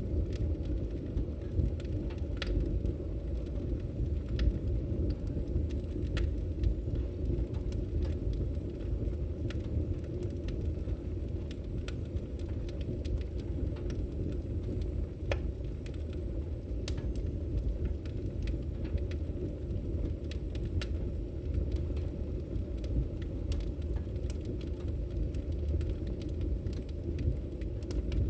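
Wood fire in a fireplace crackling: a steady low rush of burning with irregular sharp pops and snaps scattered through it.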